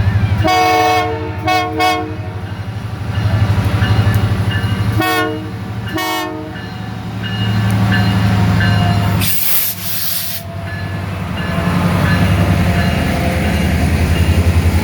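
Diesel locomotive of a passing train rumbling steadily while its multi-note air horn sounds a long blast followed by two short toots, then two more short blasts about five and six seconds in. Two short bursts of hiss come near ten seconds in.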